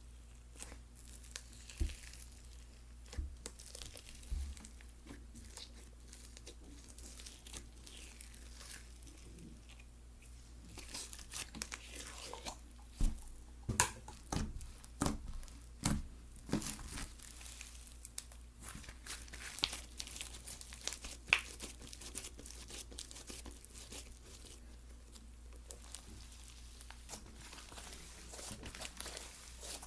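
Hands stretching, squeezing and poking slime, giving crackling, tearing and popping sounds, busiest and loudest through the middle.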